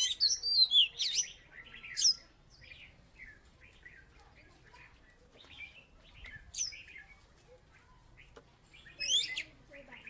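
Oriental magpie-robin (kacer) singing: a burst of rapid, gliding whistled notes over about the first two seconds, quieter scattered notes after, and another loud phrase near the end.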